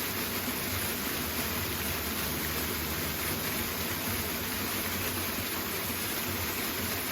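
Powerful waterfall rushing steadily, an even hiss of falling water.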